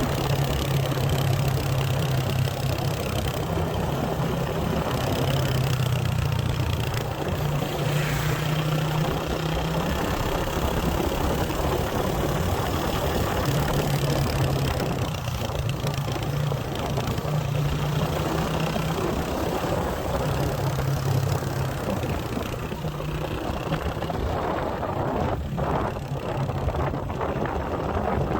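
Motorcycle engine running at a steady pitch under a constant rush of wind and road noise, its hum fading in and out.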